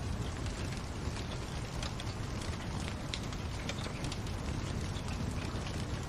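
Wood fire burning in a fireplace: a steady low rumble and hiss with many small sharp crackles and pops scattered throughout.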